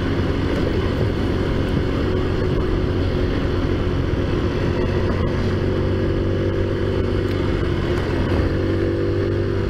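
Taotao Zummer scooter's 50cc four-stroke engine running steadily while riding, its note rising a little near the end, over a steady rush of wind and road noise.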